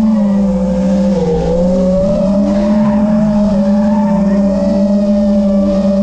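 FPV quadcopter's brushless motors and tri-blade propellers whining steadily, with a slight waver in pitch. Fainter vehicle engines rise and fall in pitch underneath.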